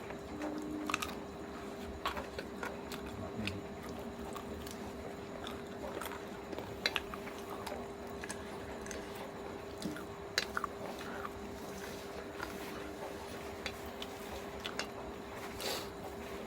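A person chewing and biting into spicy chicken feet close to the microphone: irregular wet smacks and small crunches, over a steady hum.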